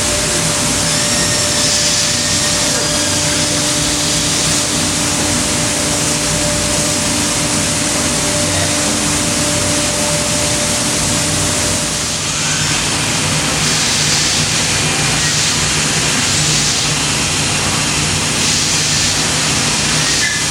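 C.R. Onsrud 5-axis CNC router spindle cutting wood: a loud, steady rushing noise with a held tone. About twelve seconds in the tone stops and the machine's sound shifts lower.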